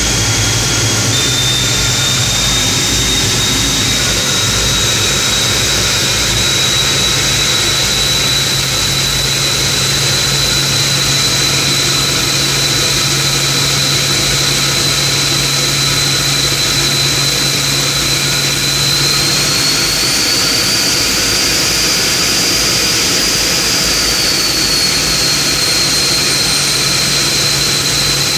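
T-33 jet trainer's turbojet engine running on the ground, heard from the rear cockpit: a steady jet rush under a high whine that rises slightly about a second in, then rises and falls back again about twenty seconds in. A low hum underneath drops out for a few seconds at about the same time.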